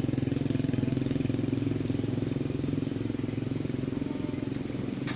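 Motorbike engine running steadily, slowly fading, with a sharp click just before the end.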